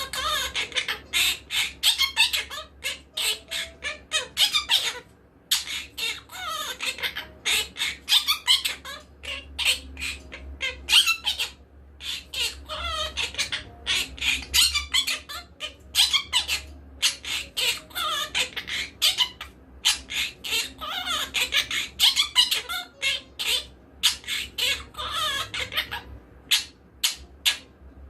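Quaker parrot (monk parakeet) chattering and squawking: rapid runs of short, harsh, high calls, with a couple of brief pauses.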